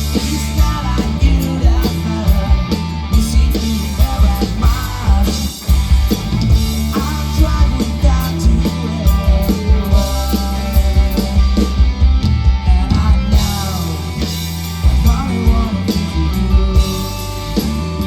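Rock band playing an instrumental passage: guitars over bass and drum kit, with gliding lead lines and a brief drop in the middle.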